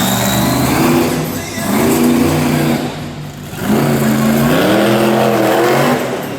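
Monster truck engine revving hard in three surges, its pitch climbing and falling in each; the last and longest surge ends shortly before the end.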